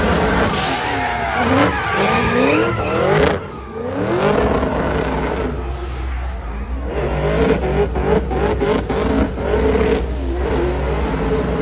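Car engines revving, their pitch rising and falling again and again. A steady low drone sets in about four seconds in, and a run of sharp pops comes near the middle.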